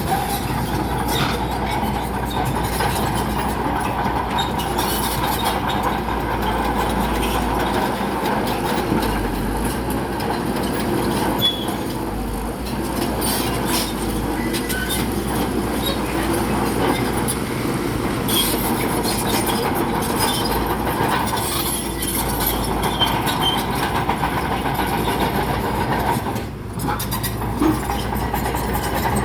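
Crawler bulldozer's diesel engine running steadily while it pushes rock, with the continuous clanking and clatter of its steel tracks and stones.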